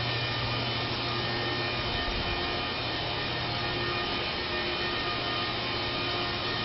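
Steady mechanical hum with hiss and a few faint steady tones, unchanging throughout.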